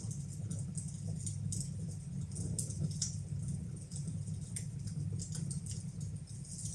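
Fire burning in a fireplace: many irregular crackles and pops over a steady low rumble.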